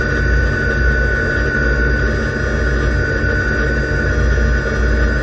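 Race car engine idling steadily, heard from inside the stripped cabin, with a steady high whine over the low engine sound.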